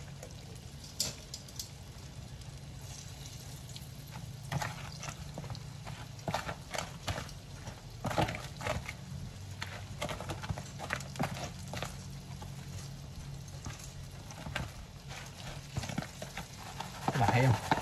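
Breaded pork cutlets frying in a pan of oil, with metal kitchen tongs clicking and tapping irregularly against the pan as pieces are turned and lifted out. A steady low hum runs underneath.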